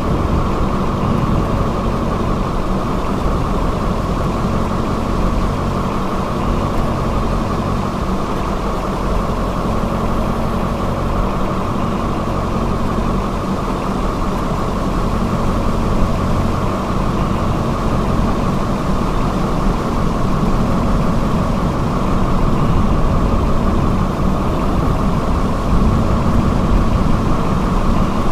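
Steady low rumble of a motor vehicle's engine, with no break or change.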